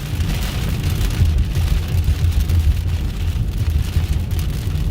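Heavy rain falling on a moving car, heard from inside the cabin, over a steady low rumble of the car's engine and tyres on the wet road.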